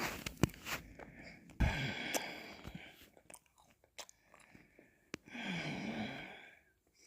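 Close-miked mouth sounds of eating ice cream: wet smacks and sharp clicks, with two longer breathy stretches, one starting about a second and a half in and one near the end.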